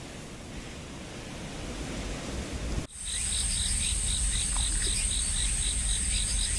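A steady rushing noise, then, about three seconds in, an abrupt change to insects: a steady high buzz with a rhythmic chirp about three times a second.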